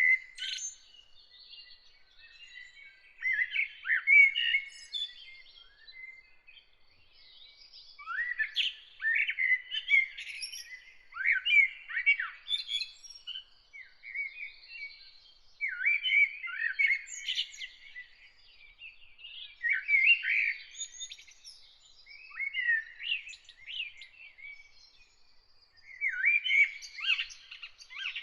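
Songbird singing in repeated phrases of quick chirps and slurred whistled notes, a new phrase every two to four seconds with short pauses between.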